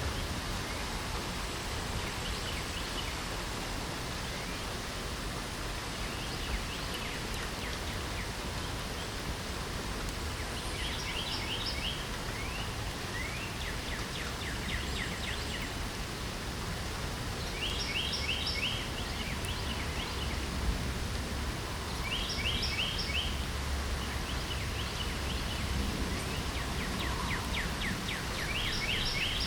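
Steady rain hiss, with a songbird singing a short phrase of quick trilled notes about every four seconds from about ten seconds in.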